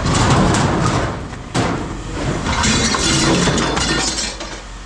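Scrap metal clattering and banging as it is thrown into a metal dumpster, with a sharp bang about a second and a half in and a longer jangling rattle past the middle.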